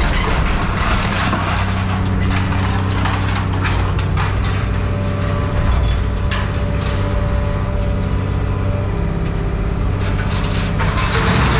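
An engine running steadily under scattered clanks, cracks and crunches of scrap metal being handled and dropped.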